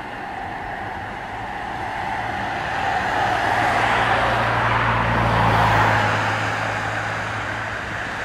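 A motor vehicle passing by: engine hum and road noise swell up, peak a little past the middle, then fade away.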